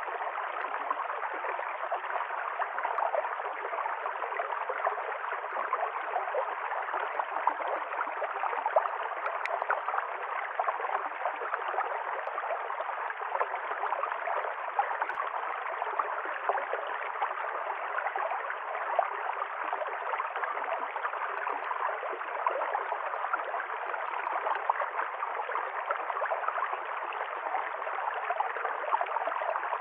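Stream water flowing and gurgling over stones, a steady rushing with fine bubbling.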